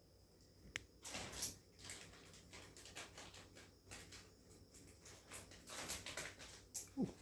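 Faint irregular rustling and scraping, with a sharp click about a second in and a short low falling sound near the end.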